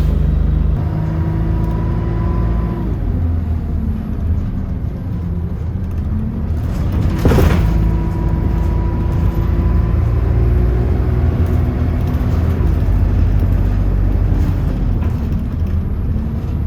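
Bus engine running with a steady low rumble, its pitch shifting up and down as it changes gear, with a thin whine at times. A short, sharp noise cuts in about seven seconds in.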